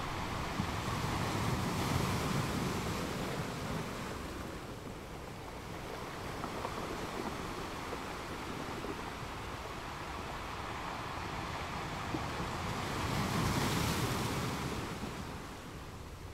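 Ocean waves breaking and washing on the shore, a steady rushing surf that swells twice, once a second or two in and again near the end.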